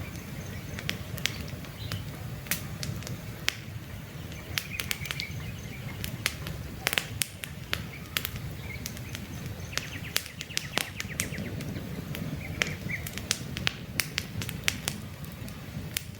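Wood campfire crackling, with many sharp, irregular pops over a low, steady rumble of burning logs. Faint bird chirps sound a few times in the background.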